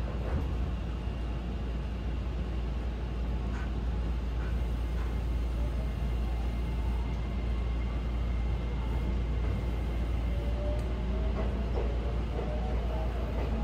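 Electric train running: a steady low rumble, with a faint rising motor whine near the end as it picks up speed.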